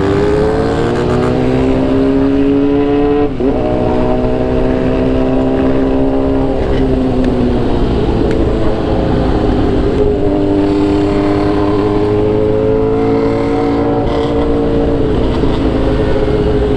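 Motorcycle engine heard from on board, pulling up in pitch, then a quick dip as a gear is changed about three seconds in. It then cruises at a fairly steady speed with a couple more small drops in pitch, over steady wind rush.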